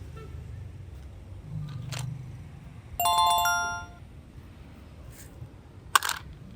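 A short electronic chime about three seconds in: several bright tones struck together that fade out within a second, over a steady low rumble, with a brief noisy burst near the end.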